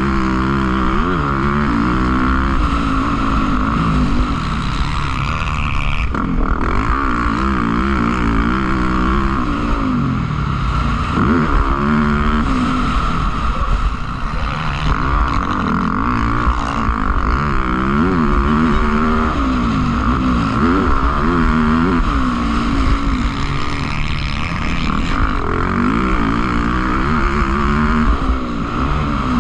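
Motocross motorcycle engines revving hard, their pitch rising and falling again and again as the bikes accelerate and back off, with several engines often heard at once. A steady higher hum runs underneath.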